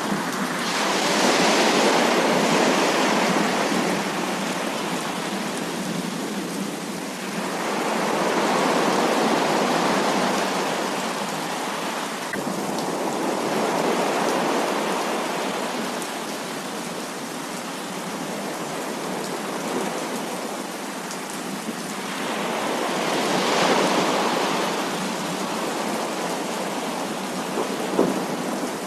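Heavy rain falling steadily, with slow swells of thunder rumbling up and fading three times. A single sharp tap comes near the end.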